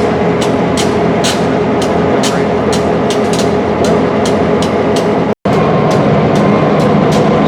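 Train running through the rail yard: a steady diesel locomotive drone with a quick run of sharp clicks from wheels crossing rail joints. The sound cuts out for an instant about five seconds in.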